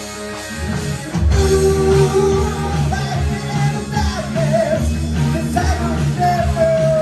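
Hard rock band playing live, with drums, bass, electric guitar and keyboard and a lead melody of held, bending notes. The full band comes in louder about a second in.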